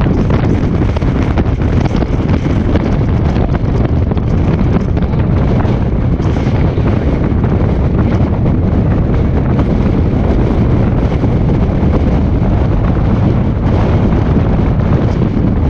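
Steady road and wind noise in a moving car, with wind buffeting the microphone.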